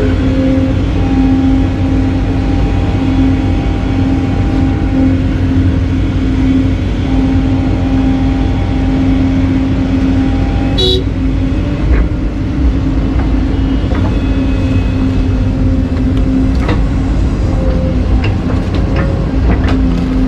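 Excavator diesel engine running steadily under load with a constant whine. A short, sharp high-pitched sound comes about eleven seconds in, and scattered knocks follow near the end.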